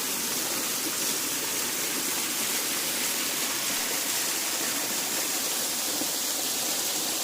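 Small waterfall splashing into a pond below it: a steady rush of falling water with no break.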